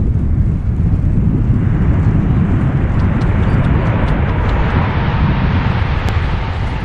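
Jet engine noise from a four-engined Airbus A380 coming in to land on its second attempt, heard over heavy wind buffeting on the microphone. The jet rush swells from about a second and a half in, peaks a few seconds later, then eases near the end.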